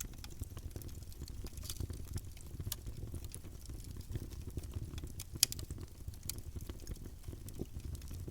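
Campfire burning: a steady low rumble of flames with scattered small crackles and pops, and one sharp, louder pop about five seconds in.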